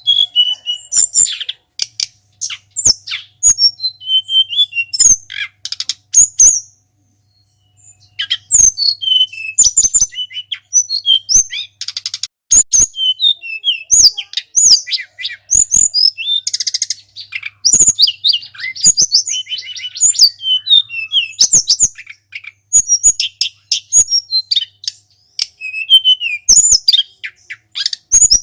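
Small songbird giving rapid, high-pitched chirps and short whistled notes in quick bursts, mixed with sharp clicks, with a brief pause about seven seconds in.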